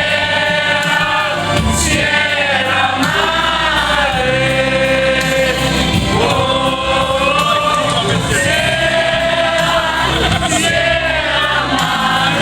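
Music with several voices singing a melody together over a steady backing.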